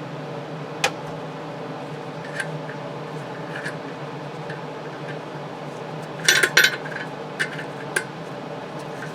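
A few sharp clinks of hard objects being handled, with a short clatter of them a little after the middle, over a steady low hum.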